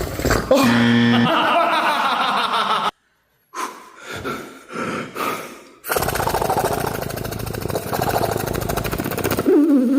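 Beatboxer imitating a helicopter with the mouth: a fast, even chopping pulse like rotor blades. It breaks off about three seconds in for a few quieter breathy sounds, then starts again about six seconds in and runs on.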